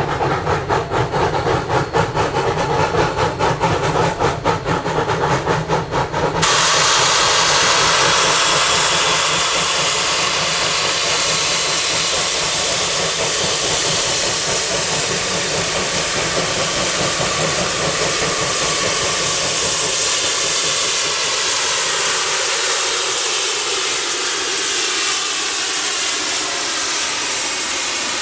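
Narrow-gauge steam locomotive with a fast rhythmic clatter at first. About six seconds in, a loud steady hiss of escaping steam starts abruptly and keeps going, easing only slightly toward the end.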